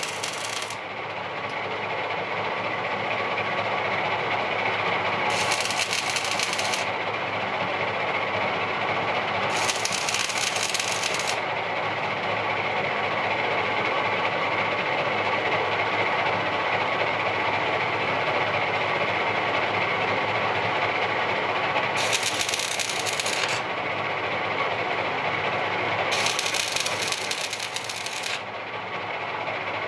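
Stick (shielded metal arc) welding on an AC welder: the arc crackles and hisses steadily, with several brief spells of sharper, higher hiss every few seconds.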